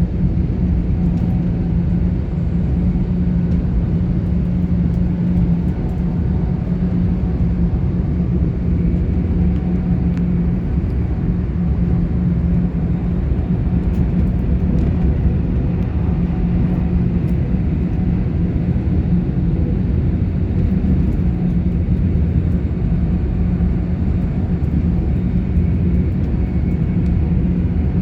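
Interior sound of a GWR Class 800 IET train in motion: a steady low rumble of wheels on rail with a constant hum from the traction equipment, unchanging throughout.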